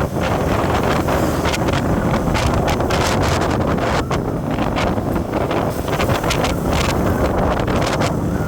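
Wind buffeting the microphone on a moving vehicle, in irregular gusts over a steady rumble of road and engine noise.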